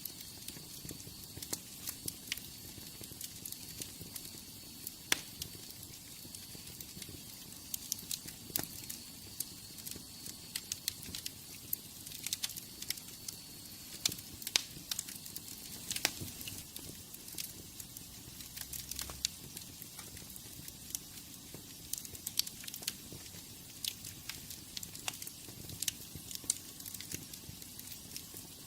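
Wood fire burning in a fireplace, crackling with frequent irregular sharp pops and snaps over a low steady rush of flame.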